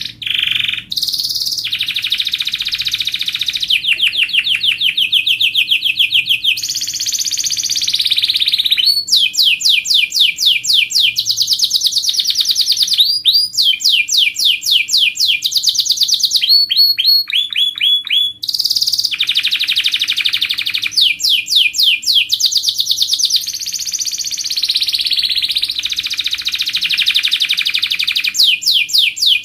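Domestic canary singing a continuous song of rapid trills and rolls, its phrases changing every few seconds, with some fast repeated downward-sweeping notes. It is a training song used to teach canaries for singing contests.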